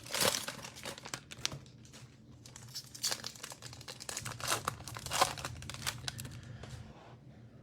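Cellophane wrapper of a trading-card cello pack being torn open and crinkled, in many irregular crackles.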